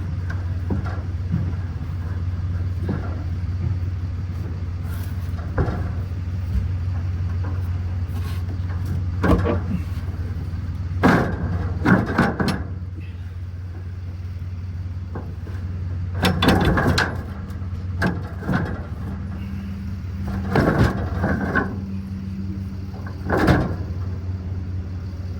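Scattered metal clanks and scrapes as a floor jack is repositioned and the fuel tank is lowered under the truck, over a steady low hum.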